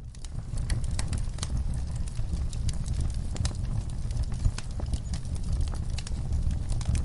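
Burning wood logs crackling, with irregular pops and snaps over a steady low rumble of the flames. One louder pop comes about four and a half seconds in.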